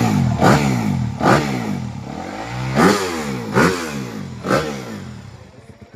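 Motocross dirt bike engines revving hard again and again, the pitch climbing and dropping with each burst of throttle, then fading away near the end.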